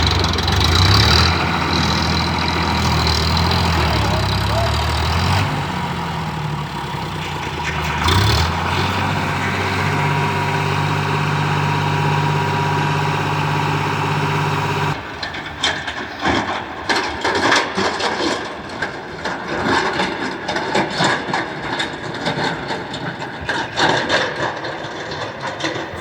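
Sonalika DI 50 tractor's diesel engine running, its note shifting a few times. About fifteen seconds in, the steady engine sound gives way abruptly to irregular crackling, clattering noise.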